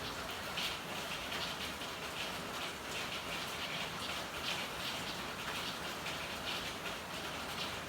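Steady rain falling, a continuous hiss flecked with the patter of many small drops.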